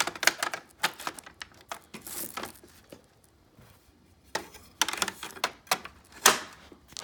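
Irregular sharp plastic clicks and knocks from the Hoover upright vacuum's on-board hose being fitted back onto its rack on the side of the machine.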